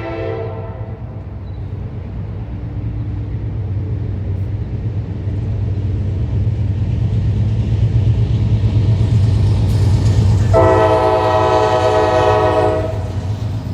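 An approaching train, its low rumble growing steadily louder, sounds its multi-tone air horn: the end of a blast just at the start, then one long blast of about two seconds near the end.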